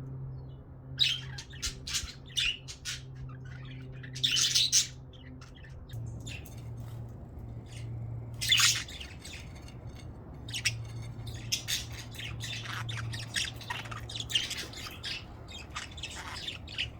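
Budgerigars chirping and squawking in short calls, with several louder squawks scattered through, over a steady low hum.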